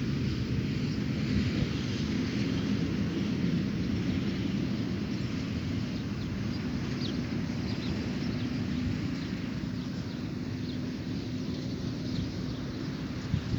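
Dawn outdoor ambience: scattered short bird chirps over a steady low rumble with a faint hum in it.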